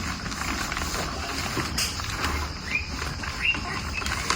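Young chickens giving a few short, rising chirps over a steady rustling background, with a couple of sharp clicks.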